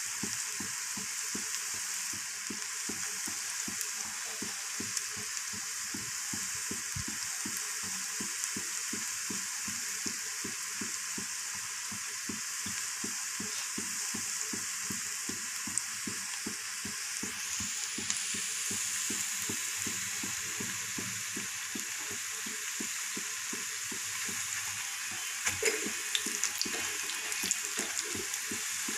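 Battered cauliflower pakoras deep-frying in hot oil, a steady sizzle with dense crackling. About three seconds before the end a metal ladle goes into the pan to turn them, adding louder knocks and scrapes against the pan.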